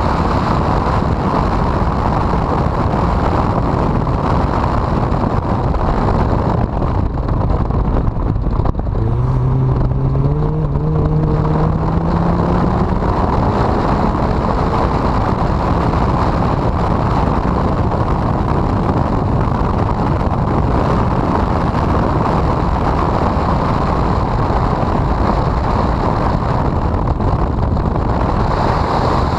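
Honda CRX on track, heard through a loud, rough roar of wind and road noise on the microphone. About nine seconds in, the engine note climbs steadily in pitch for several seconds as the car accelerates.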